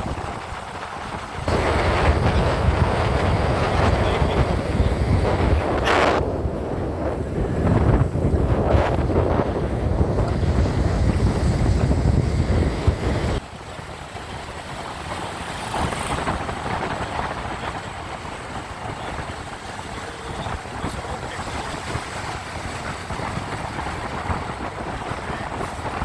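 Wind buffeting the microphone and road noise on a moving motorcycle, a loud low rush that drops suddenly about halfway through to a lighter steady rush.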